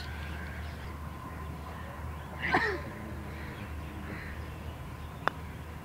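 A bird gives a single short caw about halfway through, and a sharp click follows near the end, over a steady low hum.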